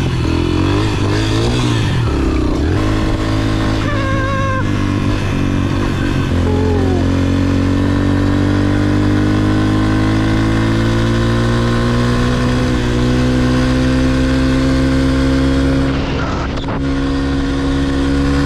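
Small dirt bike engine running under steady load on a trail climb. Its pitch wavers at first, then climbs slowly and evenly for about ten seconds before easing off near the end.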